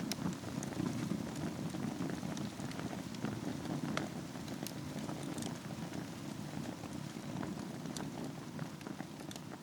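Wood fire burning in a fireplace over a bed of embers: a steady low rumble of flame with scattered sharp crackles and pops from the burning logs.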